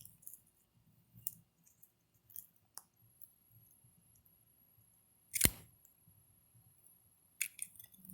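A few small clicks and one loud sharp knock about five and a half seconds in, over faint low room rumble and a thin high whine.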